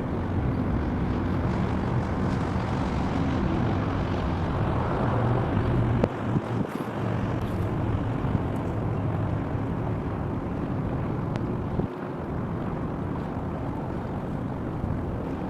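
Steady low rumble of distant heavy machinery or engines, with a few faint knocks about six seconds in.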